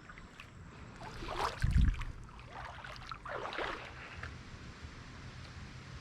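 Swishing and sloshing of creek water, with a single loud low thump on the microphone a little under two seconds in, over a steady low rumble.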